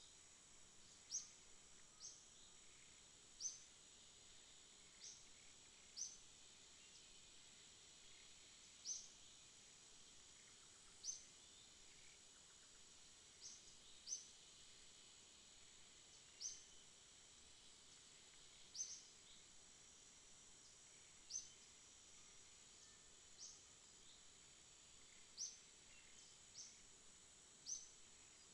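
Faint night insect chorus: a steady high-pitched drone, with short high chirps that recur irregularly every second or two.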